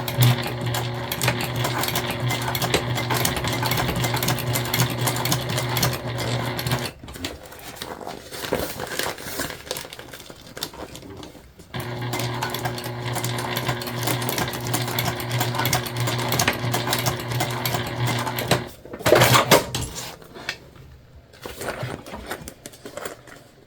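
Electric sewing machine stitching through vinyl with a steady hum, in two runs of about seven seconds each with a pause between, going back over spots where stitches skipped. A short loud clatter follows the second run.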